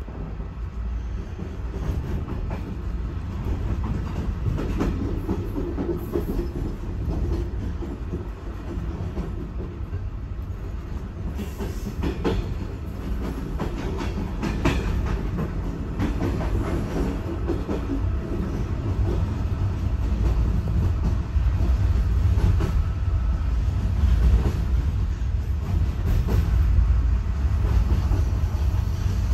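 Steady rumble of a loco-hauled ZSSK passenger coach running on rails, heard from inside the coach, with scattered sharp clacks from the wheels on the track. The rumble grows slowly louder toward the end.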